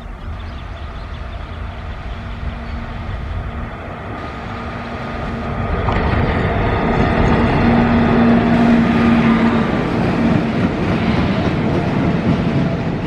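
Twin WAG-7M electric locomotives hauling a loaded BOXN freight train running past: a continuous rolling rumble with a steady low hum, growing louder about six seconds in as the train comes by.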